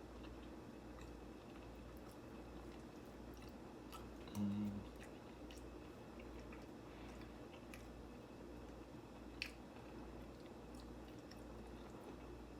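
Faint chewing and wet mouth sounds of someone eating pasta with fried shrimp, with scattered small clicks. About four and a half seconds in comes a brief low hum, the loudest sound, and a sharp click near the end.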